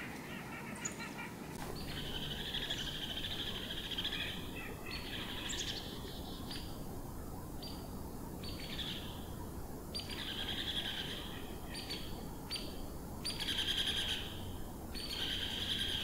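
Small birds calling: harsh, buzzy notes repeated every second or two, some lasting about a second, over a steady low background rumble.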